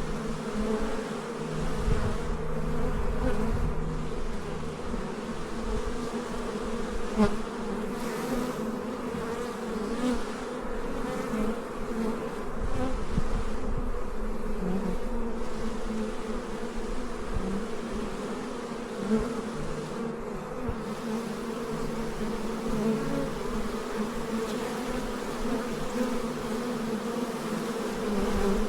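Many honeybees flying around a busy hive, making a steady, continuous buzzing drone.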